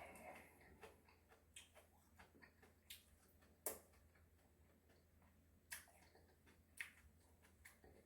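Quiet eating sounds: a few sharp, irregular clicks of chewing, the loudest about three and a half seconds in, over a faint steady hum.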